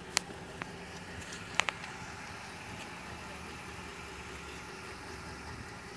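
A car engine idling steadily, with a few sharp clicks near the start, the loudest a quick double click about a second and a half in.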